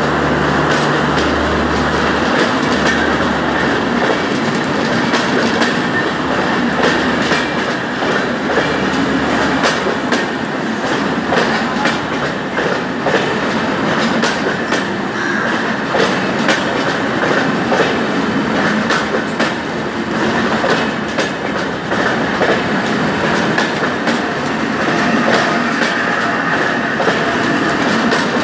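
Express train of LHB passenger coaches behind a WAM-4 electric locomotive rolling along, with a steady rumble and wheels clacking over the rail joints. A low hum dies away in the first few seconds.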